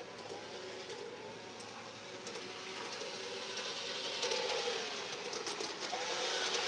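G-scale garden model train running along its track: a steady running rumble with a faint motor hum, and a few light clicks from the wheels about four to six seconds in.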